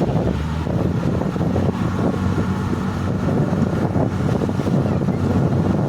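Passenger ferry's engine running steadily as the boat moves along, with wind rushing on the microphone.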